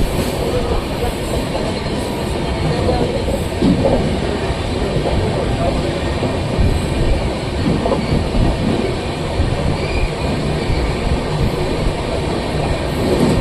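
Amarnath Express passenger train running through a station without stopping: a steady rumble and rattle of the wheels on the track.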